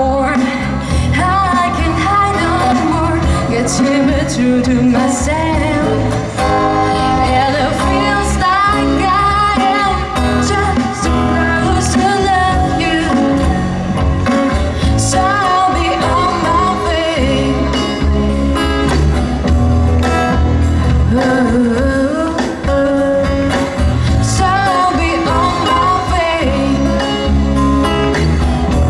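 A live band playing a pop-rock song, with guitar and singing over a steady bass and drums.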